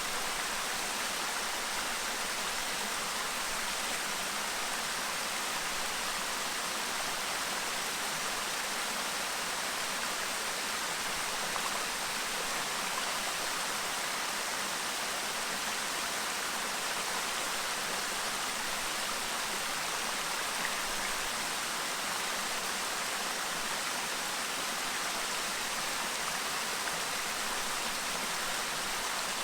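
A clear river babbling steadily: an even, unbroken rush of flowing water.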